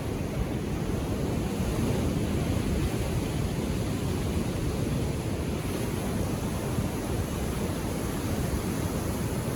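Indian Ocean waves washing on a beach: a steady rush of surf with no distinct breaks, slightly stronger about two seconds in.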